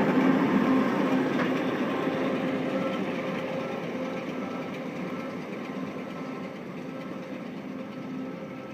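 Case IH tractor running at work pulling a John Deere 566 round baler, a steady engine drone with the baler's machinery running, fading steadily as the rig moves away.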